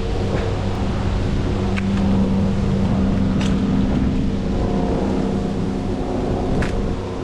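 A motor hums steadily under gusty wind noise on the microphone, with a few faint clicks.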